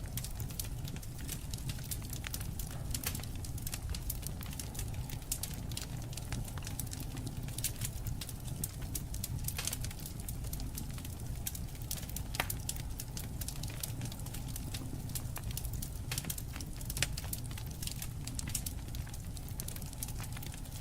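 Wood fire crackling, with frequent sharp irregular pops over a steady low rumble of the flames.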